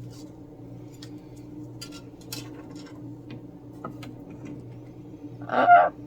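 A parrot gives one short, loud squawk near the end. Faint scattered clicks and taps of small objects being handled come before it, over a steady low hum.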